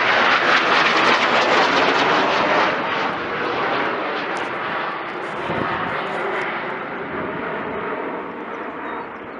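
Eurofighter Typhoon jet engines, loud at first, fading steadily as the jet flies away.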